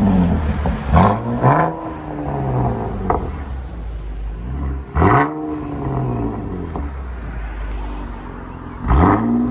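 Chevrolet Camaro 3.6L V6 with a Borla ATAK axle-back exhaust and X-pipe, idling and revved in quick blips: two close together about a second in, another around five seconds, and a third starting near the end, each dropping back to idle.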